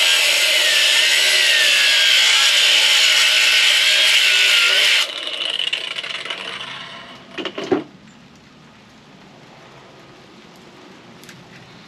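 Small hand grinder cutting through a small motor's copper windings: a loud, high whine with harsh cutting noise and a wavering pitch as it bites. About five seconds in it is released and runs down, with a couple of knocks just before eight seconds.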